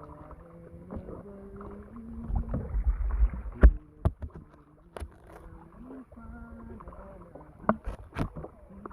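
Kayak paddling: the paddle knocks sharply against the hull several times from the middle onward, after a low rumble of water and handling. A voice sings long held notes underneath.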